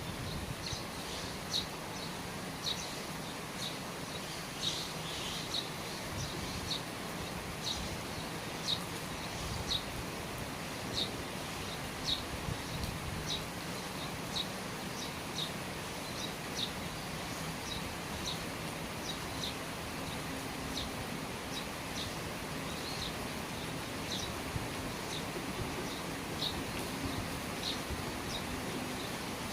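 Steady rain falling, heard from under the eaves, with short high ticks recurring irregularly about once a second.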